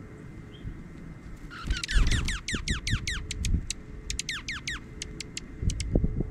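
Dark-eyed junco song: a fast trill of downward-sweeping high notes, then a shorter second trill, then several short high chip notes. A steady low rumble runs underneath.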